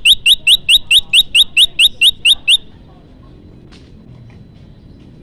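Prenjak lumut calling: a loud, fast run of about a dozen identical rising chirps, roughly four a second, that stops about two and a half seconds in. It is the kind of call played as a lure to draw in wild prenjak.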